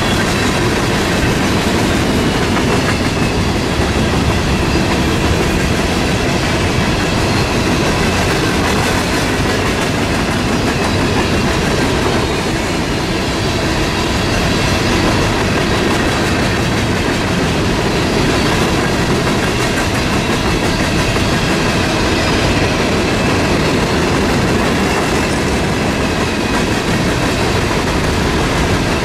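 Empty steel coal hopper cars of a freight train rolling past close by: a steady rumble and clatter of wheels on rail, with faint high steady tones running under it.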